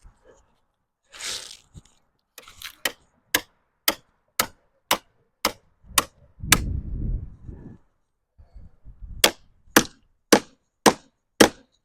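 A hand ratchet clicking in two runs of even strokes, about two a second, as the cable holding the split maple limbs together is pulled tight. A brief low rumble comes between the two runs.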